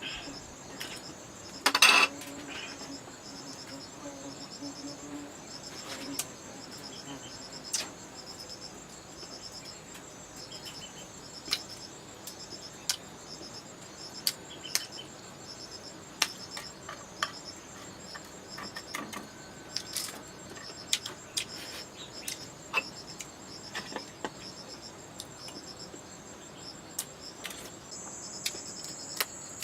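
Insects trilling steadily in a high, pulsing chorus that grows louder near the end. Scattered sharp clicks and snaps sound over it, the loudest about two seconds in.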